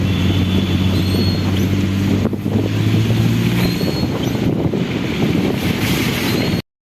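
Vehicle engine running with a steady low hum while driving, with wind noise on the microphone; the sound cuts out abruptly just before the end.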